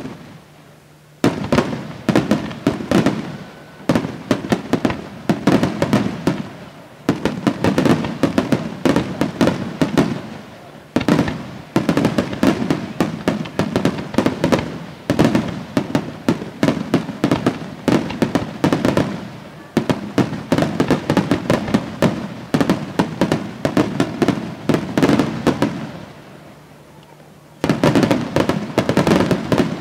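Aerial fireworks display: continuous rapid volleys of bangs and crackling from bursting shells and rising comets. The volleys start about a second in and pause briefly near the end before starting again.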